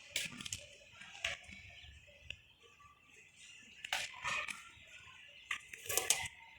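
Young cats playing: scattered scuffles, taps and scratchy scrapes, in clusters about four seconds in and again near six seconds.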